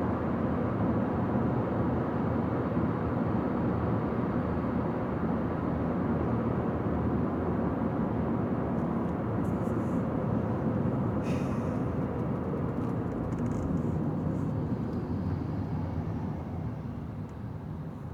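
Steady road and engine noise of a car driving on a highway, with a brief tick about eleven seconds in and the noise easing off near the end.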